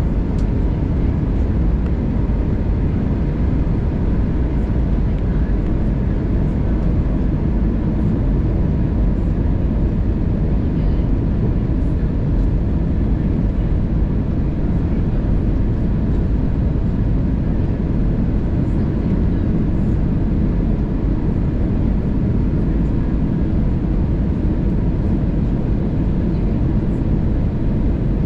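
Steady cabin noise of an Airbus A320neo descending on approach: a constant airflow and engine rumble, strongest in the low end, with a faint steady tone.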